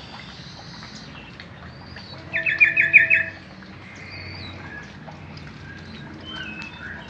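Birds chirping: a quick run of about six sharp chirps a little over two seconds in, the loudest sound, with fainter scattered calls before and after.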